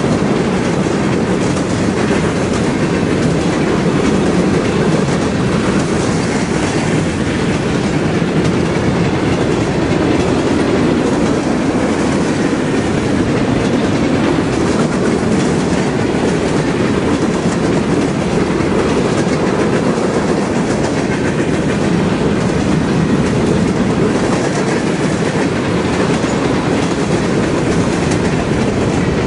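Freight train of covered hopper cars rolling past close by: a steady rumble of steel wheels on the rails, with wheels clicking over the rail joints.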